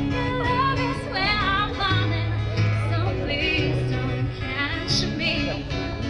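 Live band playing a song: a singer's wavering voice over held bass notes.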